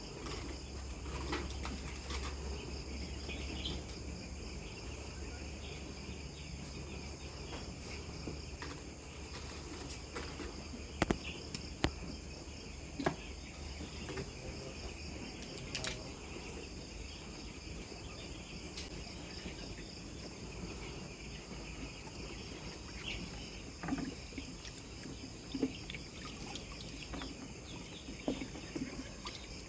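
Steady insect chorus trilling continuously, with a low hum that stops about a third of the way in and a few sharp clicks near the middle.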